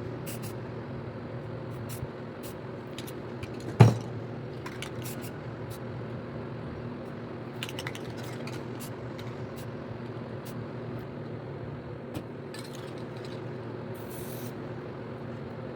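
Aerosol spray paint can hissing in short bursts over a steady low hum, with one sharp knock about four seconds in.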